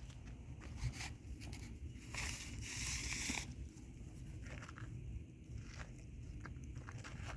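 Cats crunching dry kibble, with many small scattered clicks and a short rustling burst about two seconds in.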